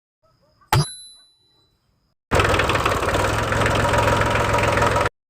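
A single sharp metallic clink that rings briefly, then a small engine running loudly with a rapid even pulse for about three seconds before cutting off abruptly.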